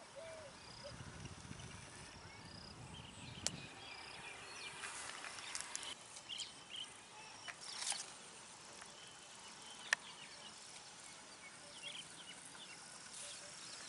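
Faint outdoor ambience with small birds chirping in short scattered calls and a few sharp clicks.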